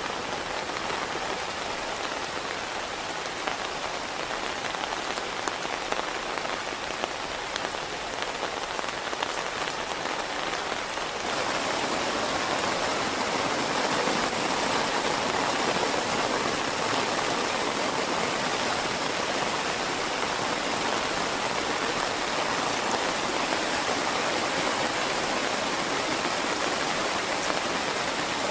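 Heavy rain falling steadily, with individual drops pattering on a surface. About eleven seconds in it abruptly turns louder and denser, a steady hiss.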